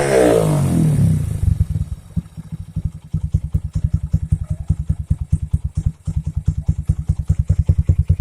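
Motorcycle engine running through a CLD C3 aftermarket exhaust, its revs falling away during the first second or so. It then settles into idle, with a quick, even train of exhaust pulses.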